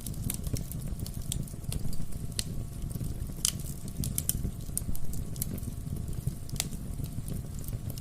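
Wood fire burning in a fireplace: a steady low rumble of the flames with irregular sharp crackles and pops from the burning logs, one louder pop about three and a half seconds in.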